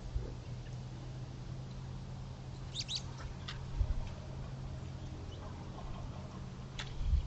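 Short high bird chirps: a quick cluster of them about three seconds in, then single chirps shortly after and near the end, over a steady low hum.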